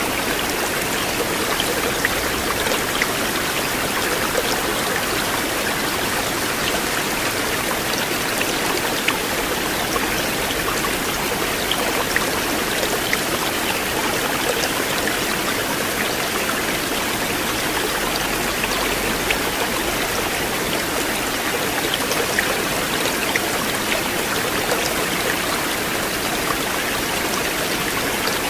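River water flowing steadily, an even rushing with scattered small splashes.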